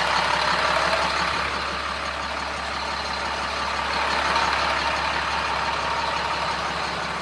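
2007 Sterling L7500 garbage truck's 7.2-litre diesel engine idling steadily.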